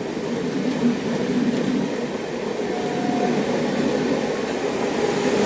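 Passenger train coaches rolling past: a steady rumble and rattle of steel wheels on the rails, growing slightly louder toward the end.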